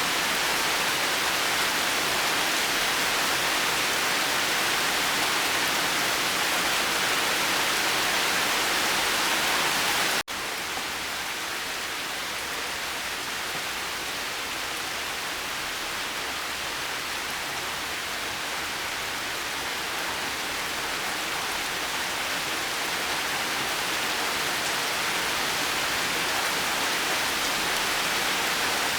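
Steady rain falling as an even hiss. About ten seconds in it cuts out for an instant, then resumes a little softer and duller, slowly growing again.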